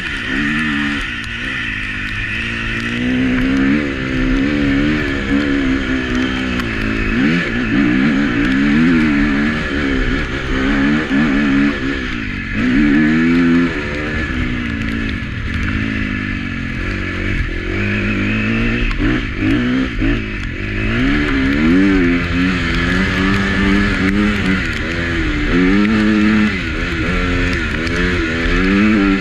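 Husqvarna FC350 four-stroke single-cylinder motocross engine, revving up and dropping back again and again as the throttle is opened and closed around the track, heard close up from the bike.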